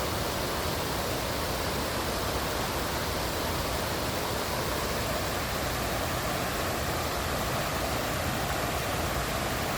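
Waterfall: water falling and splashing, a steady, unbroken rush.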